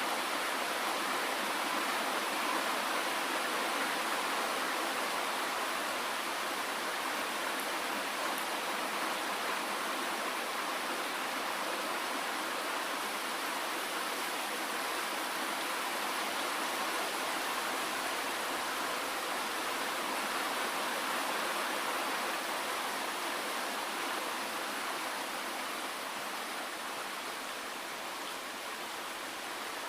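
Steady rain falling, an even wash of noise with no single drops standing out, growing a little quieter near the end.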